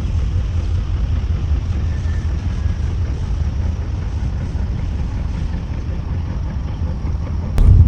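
Steady low rumble and road hiss of a car driving, heard from inside the cabin. Near the end a sharp click, and a louder rumble cuts in abruptly.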